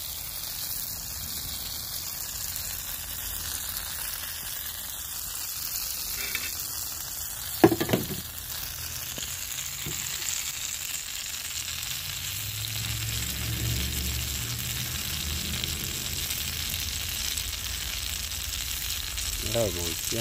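Sauce-dipped corn tortillas topped with chopped beef sizzling steadily in hot oil on a griddle pan, frying into enchiladas. A single sharp clack sounds about eight seconds in.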